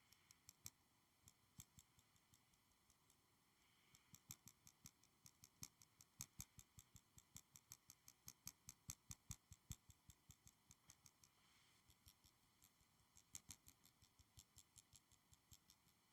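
Quick, light tapping on a school supply, close up: sharp little clicks at about four a second, in runs with short pauses between them.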